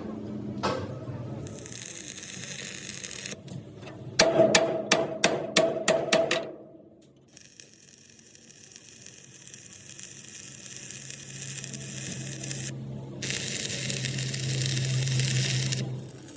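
Metalworking sounds: a quick run of about ten sharp knocks, around four a second, followed by a steady machine hum with a hiss that grows louder near the end and then cuts off.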